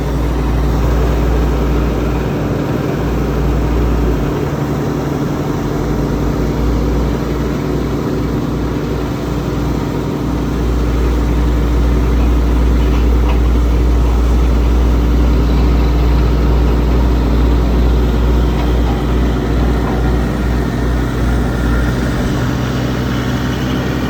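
A heavy engine running steadily, with a deep, even rumble and a constant hum.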